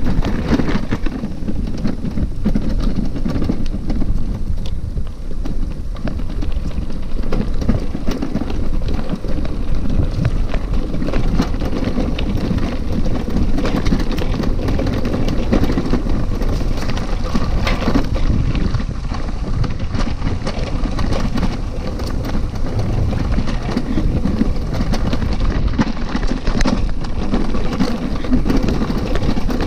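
Bicycle being ridden over a rough dirt trail: a steady rumble of tyres on the ground, with many small knocks and rattles from the bike and wind noise on the microphone.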